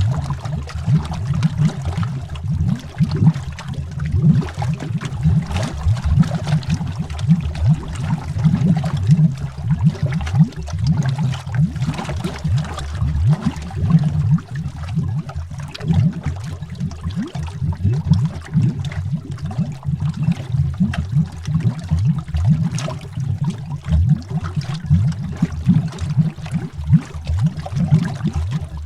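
Underwater bubbling: a continuous stream of air bubbles rising through water, heard as a dense, low gurgle full of small pops.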